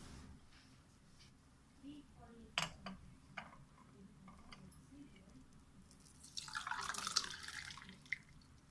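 A couple of sharp clinks of a cup or utensil, then tea being poured for about a second, with dripping.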